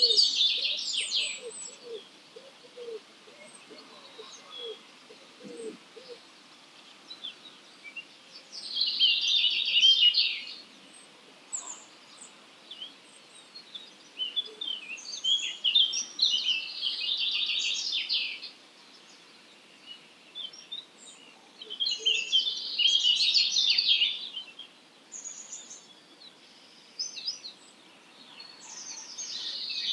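Dawn chorus of wild songbirds: a bird sings dense, high twittering phrases about two seconds long, one roughly every six seconds, with fainter chirps from other birds between them. A run of low calls sounds in the first six seconds.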